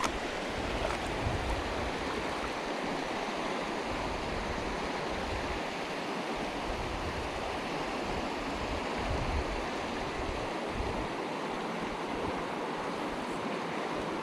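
Mountain river water rushing steadily, a constant even hiss of flowing water, with uneven low rumbles underneath.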